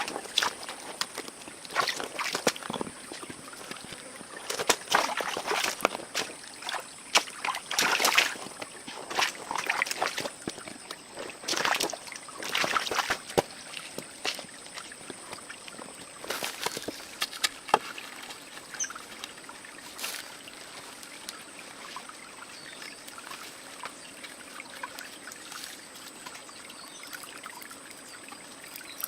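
Water trickling and sloshing, with irregular splashes and handling clatter that thin out about two-thirds of the way through. A steady high-pitched whine runs underneath.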